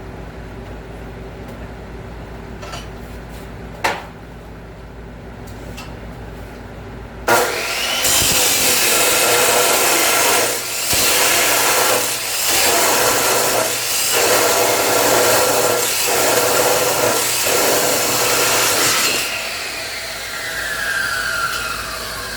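Chop saw cutting steel angle iron. After a sharp knock, the saw starts and cuts loudly for about twelve seconds with a few brief dips, then its blade spins down with a falling whine near the end.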